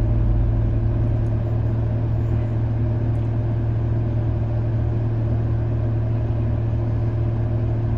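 Car engine idling steadily with no throttle, heard from inside the cabin as a constant low hum.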